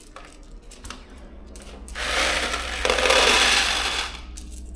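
Loose metal bolts rattling and clattering together for about two seconds, loudest in the middle.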